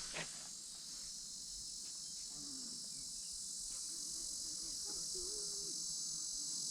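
Steady, high-pitched chorus of insects calling.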